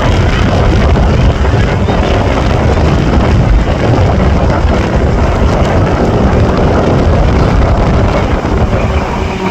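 Loud, steady roar of aircraft engine noise, heavy in the low end, with wind buffeting the microphone.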